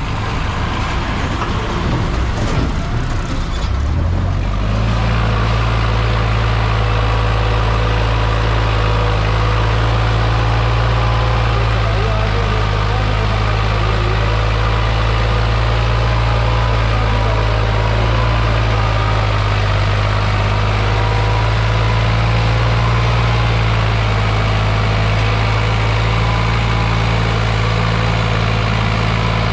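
Sonalika 745 DI RX tractor's diesel engine running under heavy load, pulling a soil-loaded trolley of about 220 quintals. It is uneven for the first few seconds, then settles into a steady deep drone.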